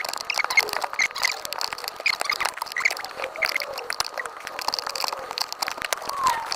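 Repeated small clicks and knocks of hands and a screwdriver working plastic dashboard trim and the blower fan housing, as a stubborn part is freed. Short high chirps sound in the background.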